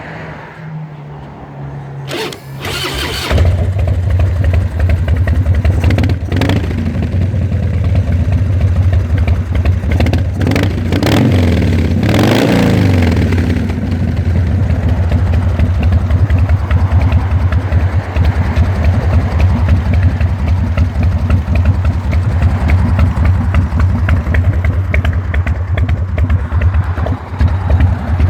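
Harley-Davidson 1340 Evolution V-twin engine being started: it cranks briefly and catches about three seconds in, then runs with a steady low pulse. It is revved up and down a couple of times around the middle, then settles back to idle.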